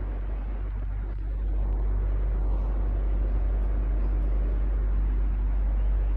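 Electric fan running steadily: a continuous airy whoosh over a deep low hum, growing slightly louder about a second and a half in.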